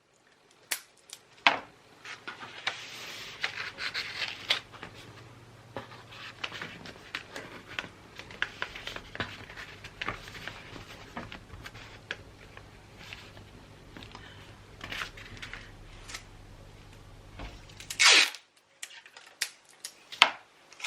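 Gift-wrapping paper being handled, with rustling, crinkling and small taps and clicks. A short, loud tear comes near the end.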